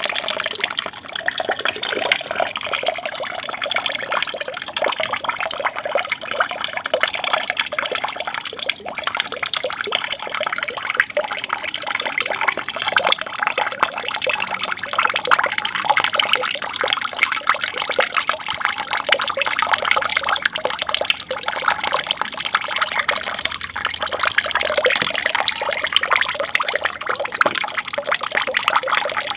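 Water from a small aquarium waterfall splashing and babbling continuously, a steady flowing trickle.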